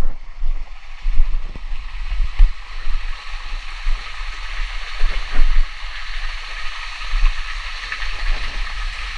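Steady rush of flowing water from a nearby stream or small waterfall, with irregular low thumps of movement and handling on the microphone.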